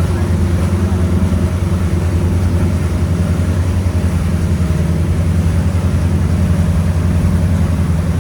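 Cruise boat's engine running steadily, a loud low drone with a fast even pulse. It cuts off suddenly at the very end.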